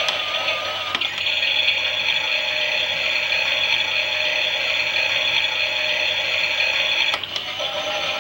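Klein Miele 6941 toy washing machine running, its small geared motor whirring steadily as it turns the drum. There is a click about a second in and another near the end, and the whirr changes pitch at each one.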